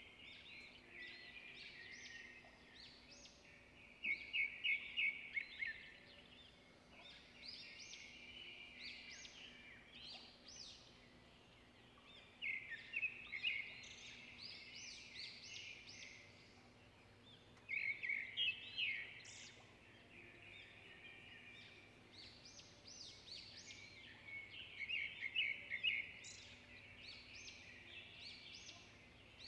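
Birdsong: a bird singing short chirping phrases with fast trills, loudest in bursts every six or seven seconds, over a faint steady hum.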